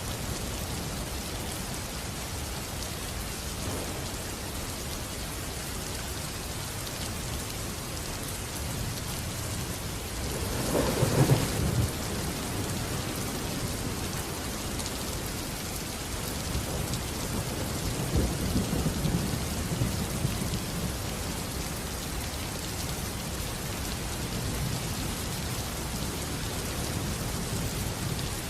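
Steady rain falling, with thunder: a sharp crack and rumble about ten seconds in, then a longer low rumble rolling a few seconds later.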